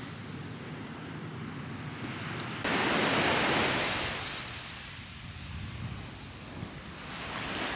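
Sea waves washing ashore, with wind on the microphone. A louder wash starts abruptly about two and a half seconds in and fades over the next two seconds, and another swells near the end.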